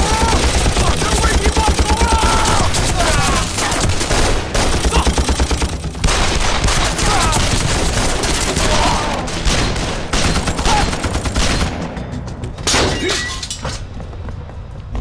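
Sustained gunfire in a staged battle: rapid volleys of rifle and machine-gun fire with men shouting, over background music. After about twelve seconds the firing thins out to a few last shots.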